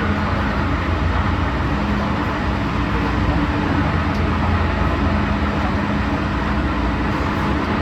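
MTR Kwun Tong Line train running: a steady, continuous rumble with a constant hum.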